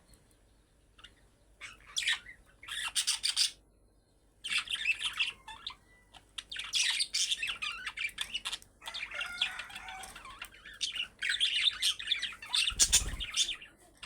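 Budgerigars chattering and chirping in spells of a second or two with short pauses between, with one low thump near the end.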